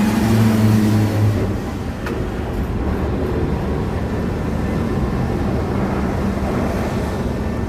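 Heavy diesel dump truck engine running under load as the truck drives off the ship. The engine note is strong for about the first second and a half, then settles into a steady low rumble.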